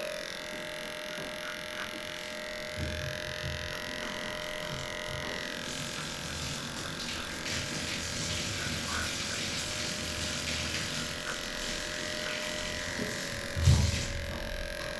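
Electric dog grooming clippers switching on and running with a steady whine through the matted coat. A brief low thump sounds near the end.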